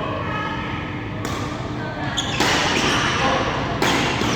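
Badminton rally in a reverberant hall: sharp racket strikes on the shuttlecock about every second and a quarter, three of them, with players' voices in the first second.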